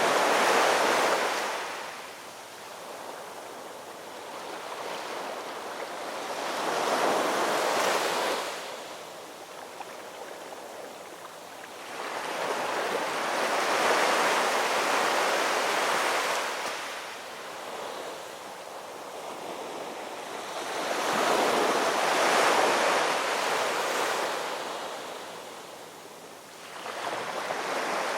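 Ocean waves washing in, the surf's hiss rising and fading in slow surges about every six to eight seconds.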